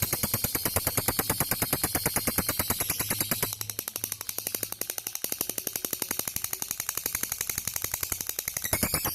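Lovebird's long 'ngekek' chatter: a rapid, even, unbroken run of sharp chirps, about ten a second, a little softer after about three and a half seconds.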